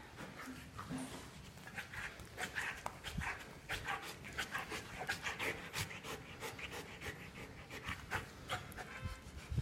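A dog panting in quick, repeated breaths that grow stronger about a second and a half in.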